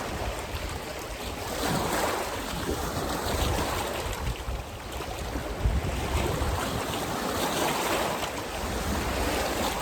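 Wind buffeting the microphone with uneven rumbling gusts, over small lake waves lapping.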